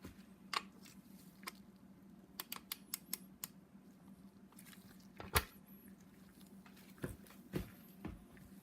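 Scattered sharp metal clicks from a wrench and torque-angle gauge turning an N54 connecting-rod bolt through its angle-tightening step. There is a quick run of about six ticks, a sharper knock a little past the middle, and a few more clicks near the end, over a faint steady low hum.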